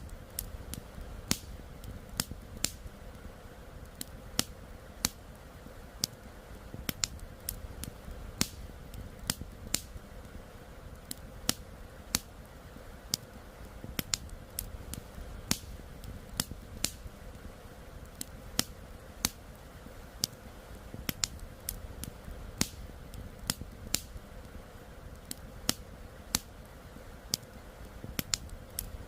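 Campfire crackling, with sharp irregular pops about once or twice a second, over a steady low rush of flowing river water.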